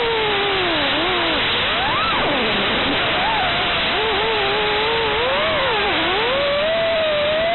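Brushless motors of an FPV racing quadcopter (Brotherhobby R4 2450kv) whining, the pitch sliding up and down continuously with the throttle, over a steady hiss.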